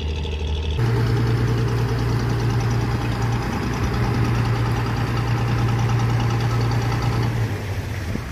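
Ferry's engine running steadily as it docks. Its note steps up in speed about a second in, holds, and eases back down near the end.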